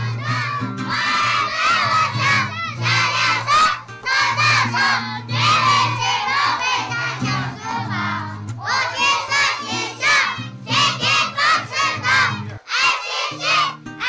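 A crowd of children shouting and cheering together in high voices, in loud bursts with short breaks, over steady background music.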